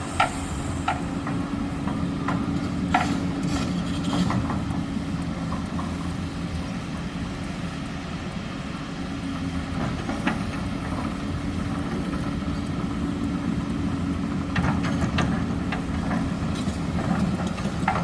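Diesel engines of heavy road-building equipment and dump trucks running steadily, with a few sharp knocks scattered through it.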